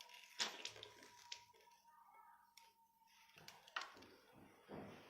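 Faint eating sounds from a cheese-stuffed hot dog: a few soft bites and mouth clicks. A faint steady tone in the background stops about three and a half seconds in.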